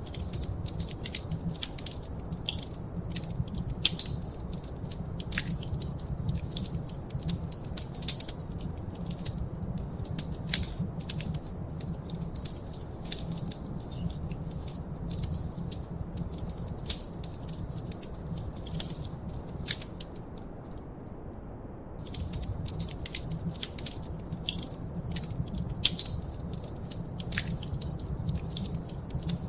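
Wood fire crackling in a fireplace: a dense run of sharp pops and snaps over a low steady rumble. The crackling drops out for about a second and a half around two-thirds of the way through, then resumes.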